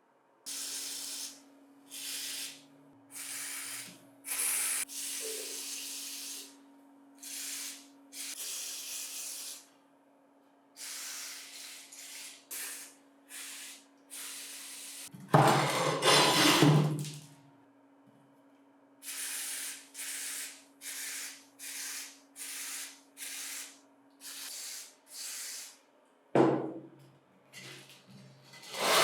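Short rubbing strokes, one after another with brief gaps, over a faint steady hum. A louder, longer scraping stretch comes about halfway through, and loud bursts near the end.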